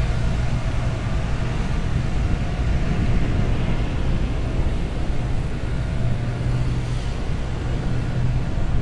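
Wind rumbling on the microphone of a rider moving along on an electric unicycle, with a steady low hum underneath.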